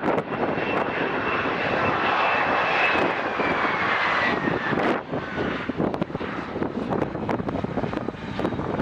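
Airplane engines passing close by: a loud engine noise with a high whine that holds, then slides down in pitch about three to five seconds in as the aircraft goes past, then eases off.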